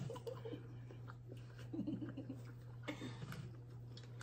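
Faint eating sounds: soft chewing and a few small clicks, over a steady low hum.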